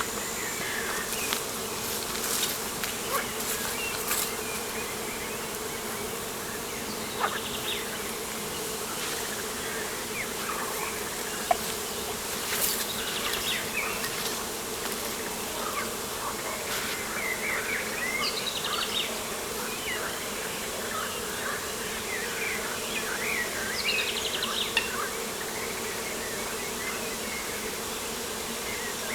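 Steady buzzing drone of flying insects such as flies or bees, with small birds chirping and trilling now and then.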